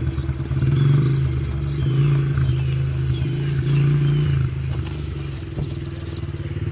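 Small dirt bike engine running at a fairly steady pitch. It goes a little quieter after about four and a half seconds.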